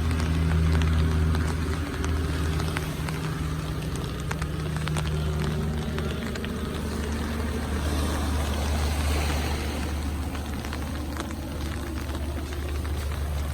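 A steady low engine hum, with rain falling over it as a constant hiss of scattered small ticks.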